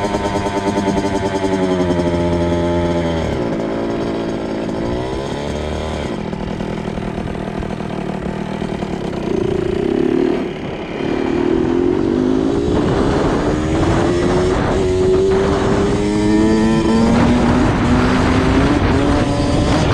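2002 Kawasaki KX 65's small two-stroke single-cylinder engine revving as it is ridden: the pitch drops off about three to five seconds in, the engine falls back briefly near the middle, then climbs steadily through the gears as the bike accelerates.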